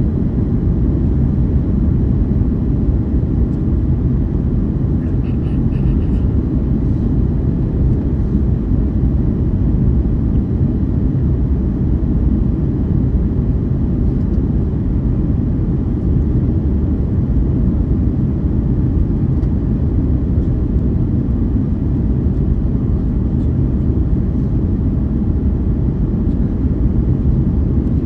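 Steady low drone of an airliner in flight, engine and airflow noise heard from inside the cabin.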